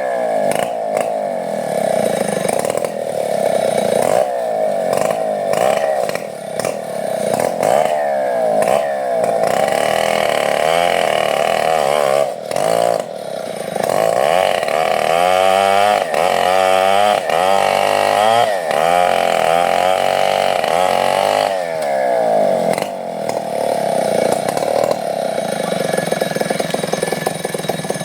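Petrol chainsaw running throughout, its engine speed rising and falling over and over, with a brief drop about twelve seconds in.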